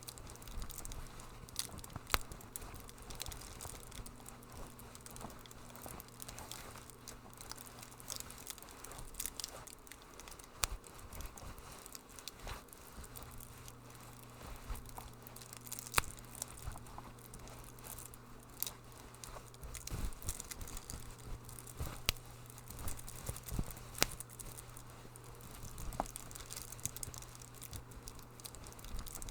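Wood fire crackling in a fireplace: irregular sharp pops and snaps over a soft hiss, with a few louder pops here and there. A low steady hum runs underneath.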